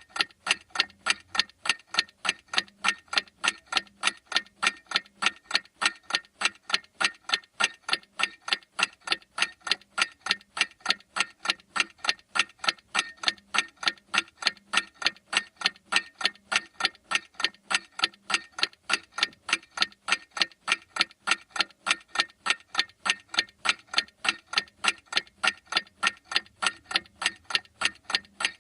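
Clock ticking: sharp, evenly spaced ticks, several a second, keeping a steady beat with no break.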